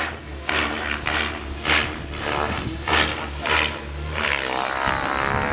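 RC model airplane in flight, its motor a steady high whine, with gusts of wind on the microphone about every half second.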